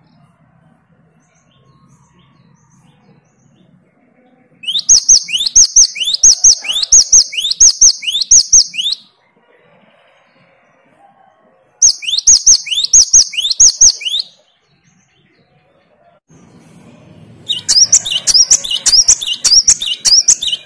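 Gelatik batu (great tit) singing three runs of sharp, rising, whistled notes repeated about twice a second, with short pauses between runs. The last run is busier and more varied.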